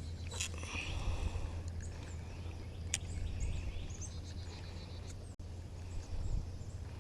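Birds chirping and calling, short notes scattered throughout, over a steady low rumble, with a single sharp click about three seconds in.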